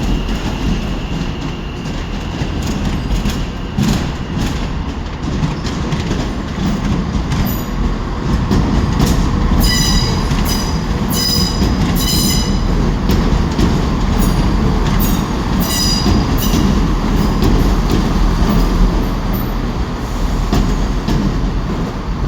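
A train moving along the station tracks: a steady rumble with wheels clicking over rail joints, and short bursts of high-pitched wheel squeal about ten seconds in and again around fifteen seconds.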